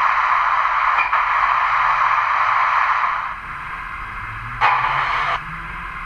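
Sound decoder of an OO gauge Grange class steam locomotive model playing steam hiss through its small onboard speaker as the model sets off, typical of the cylinder drain cocks blowing. The hiss drops away about three seconds in, and a single short, louder burst of steam comes near the end. A faint low hum rises in pitch underneath.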